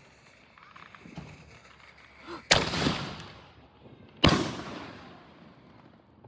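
Two loud booms about two seconds apart from Nishiki willow canister firework shells, each dying away in a long rumbling echo.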